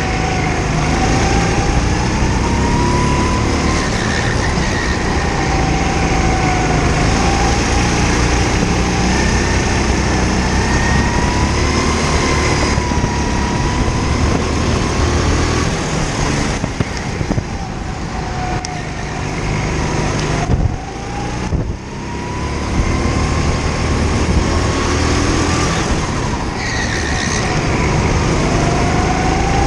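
Go-kart engine heard onboard, revving up and down as the kart accelerates out of corners and lifts off into them, with a drop in engine note about two-thirds of the way through while slowing for a bend.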